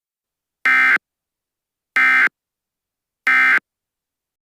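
Emergency Alert System end-of-message data bursts: three short, identical buzzy digital chirps about 1.3 seconds apart, the signal that closes an alert broadcast.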